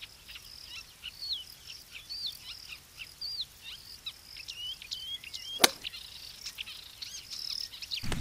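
Birds chirping and calling in short repeated phrases over a faint steady high buzz. About five and a half seconds in comes a single sharp click of a golf club striking the ball.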